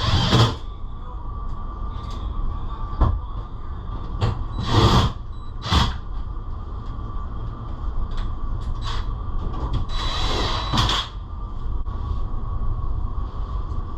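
Air conditioning system running with a steady low hum and a thin steady whine, with several short knocks and rustling bursts of handling.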